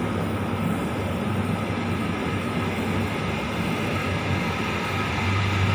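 A Sydney Trains Waratah double-deck electric train running into the station: a steady rumble with a low motor hum that strengthens near the end as it draws closer.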